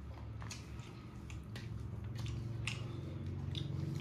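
Close-up eating sounds: a person chewing with wet mouth smacks and soft clicks, irregular and about two a second, over a low steady hum.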